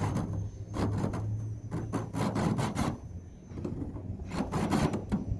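Power drill working into sheet metal in several short bursts of grinding and scraping, the bit catching on the metal rather than cutting cleanly.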